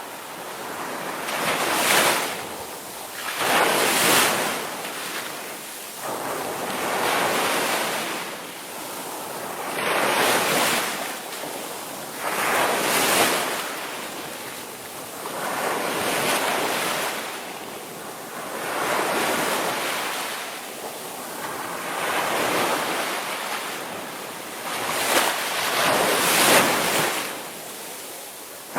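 Ocean waves breaking and washing on the shore, the surf swelling and falling back about every two to three seconds, with some wind on the microphone.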